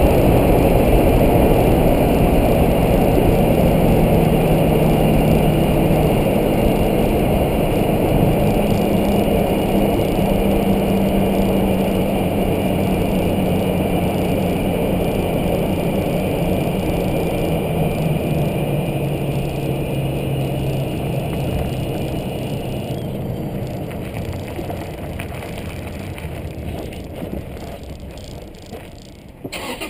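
2010 Toyota Tacoma on the move, with road and engine noise that fades steadily as the truck slows. A thin, steady high tone runs underneath and stops about three-quarters of the way through.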